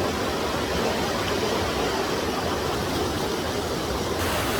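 Steady rush of flowing mountain water. The hiss grows brighter near the end.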